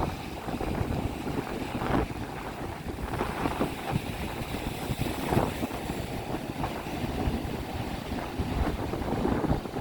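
Strong wind buffeting the microphone in gusts over the steady rush of surf from waves breaking.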